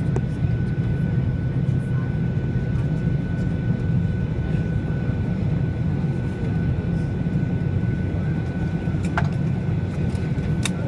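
Steady cabin noise inside a Boeing 737-800 on the ground after landing: a low rumble with a thin, steady high whine. A couple of faint clicks come near the end.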